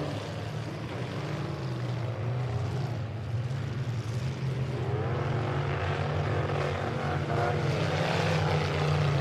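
Engines of full-size demolition derby trucks running under a steady low drone, revving up and down again and again.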